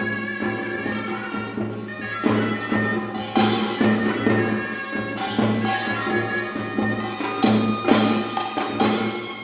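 Korean traditional ensemble music: a sustained, reedy melody on Korean double-reed pipes, with scattered drum strikes about every second or two.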